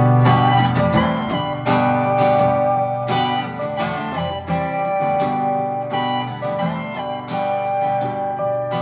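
Guitar music: an acoustic guitar strummed and picked in a steady rhythm, with no singing.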